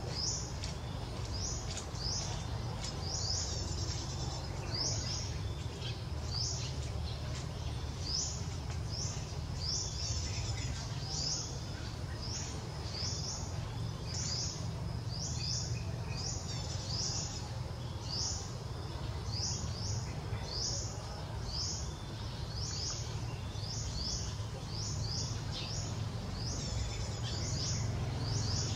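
A bird giving short, high chirps that fall in pitch, repeated over and over about one to two times a second, over a steady low rumble of outdoor background noise.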